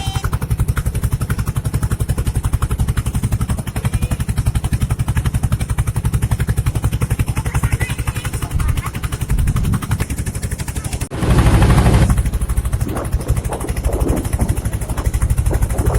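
A boat's engine running steadily with a rapid, even putter. A loud rushing burst of noise comes about eleven seconds in.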